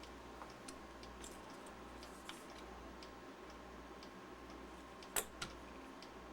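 Faint scattered clicks and taps of small battery parts and tools being handled, with one sharper click about five seconds in and a lighter one just after, over a steady faint hum.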